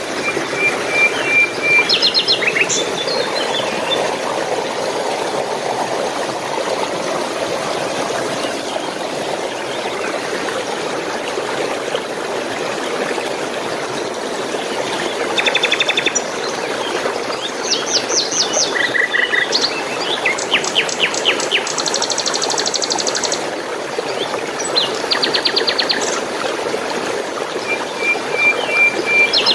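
Small birds chirping and trilling in short, scattered bursts over the steady rush of flowing water.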